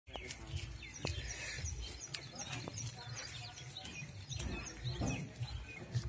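Small birds chirping repeatedly, many short chirps a second, over a low, uneven rumble.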